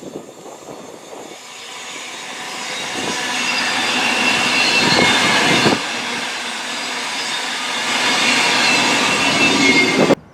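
A train passing close by on the main line, its wheel-on-rail rumble building as it approaches and staying loud as the carriages go by, with thin high-pitched squealing tones over the top. The sound cuts off suddenly just before the end.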